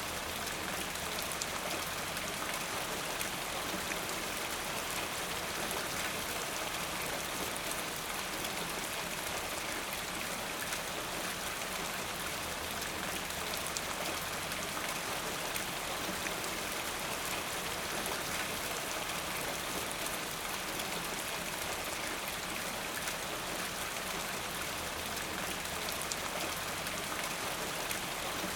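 Steady rain falling, with many fine drops ticking on a surface.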